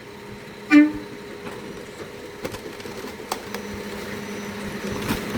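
Rear-loader garbage truck running with a steady hum that grows slowly louder. Just under a second in there is a brief loud pitched tone, and a few sharp knocks follow.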